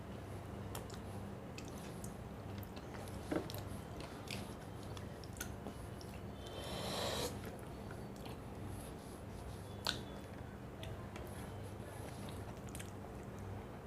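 Close-up eating sounds of a person chewing a meal of fish curry and rice, with scattered small mouth clicks and smacks. Two sharper clicks stand out, one about three seconds in and one near ten seconds, and a brief rustling swell comes about halfway through.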